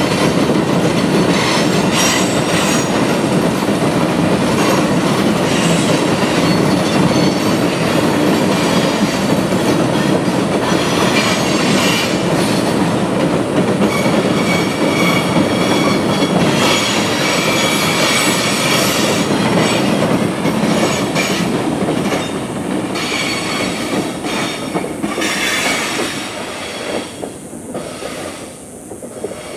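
Loaded ore gondolas of a freight train rolling over a trestle: a steady rumble and clatter of wheels on rail, with high-pitched wheel squeals now and then. The sound fades away near the end as the last car passes.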